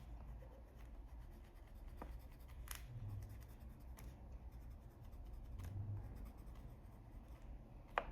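Faint scratching of a coloured pencil rubbing on paper, the light strokes of an ivory pencil blending layers of colour, with a few soft clicks.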